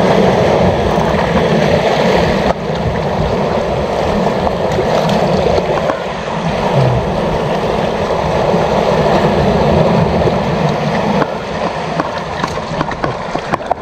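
Steady rushing noise of sea waves and wind at a rocky shoreline, with no clear rhythm or single event.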